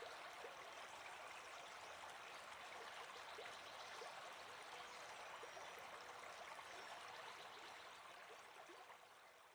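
Faint, steady rush of flowing river water, fading out near the end.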